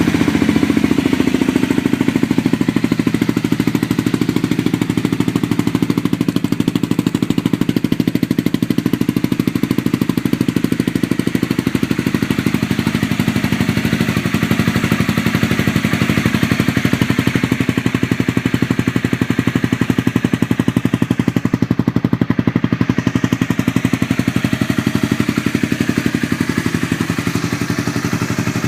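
Honda CBR250R's single-cylinder engine idling steadily through a Yoshimura aftermarket exhaust.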